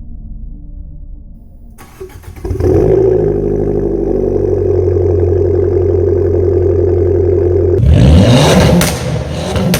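Abarth 500/595's 1.4-litre turbo four-cylinder running at low revs, then revved about two and a half seconds in and held at a steady high rev for around five seconds before being let go near the end, with sharp cracks as the revs drop.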